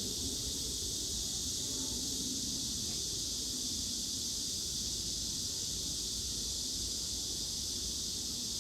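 Japanese tree frogs calling in a dense, steady high-pitched chorus, with a low rumble underneath.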